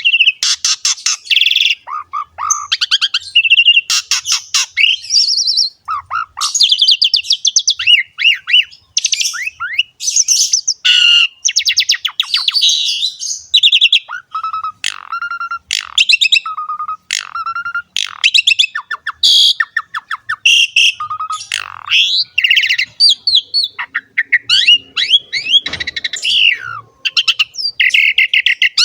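Asian pied starling (jalak suren) singing a long, unbroken, varied song of whistles, rapid trills, gliding notes and harsh chatter, in full song.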